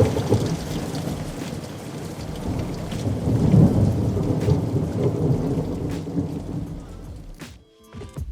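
Rain pouring down with a long roll of thunder that swells about halfway through and then fades; the sound drops away abruptly shortly before the end.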